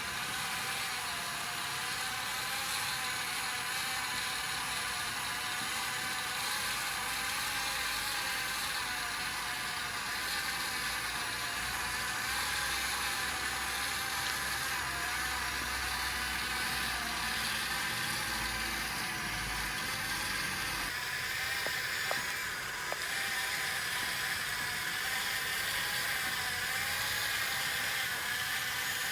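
Yigong RC excavator's small electric motors and gearing whining steadily, the pitch wavering slightly, with a couple of light clicks about three-quarters of the way through.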